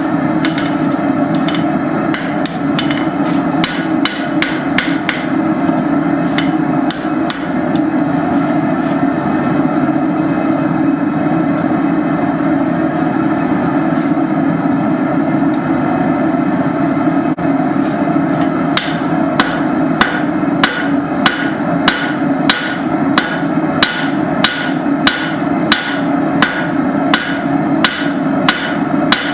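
Blacksmith's hammer striking steel on an anvil while forging, in runs of quick ringing blows about two a second, stopping for about ten seconds in the middle. A steady roar runs underneath.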